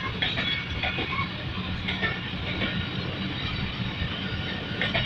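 Passenger coaches of a departing train rolling past, with a steady rumble of wheels on rail and scattered sharp clicks and knocks from the running gear.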